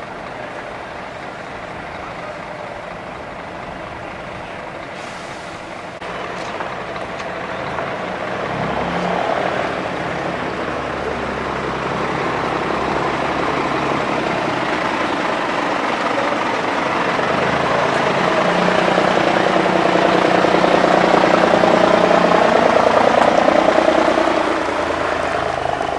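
Heavy diesel truck engines running as trucks drive past, the sound building steadily from about six seconds in and falling away just before the end.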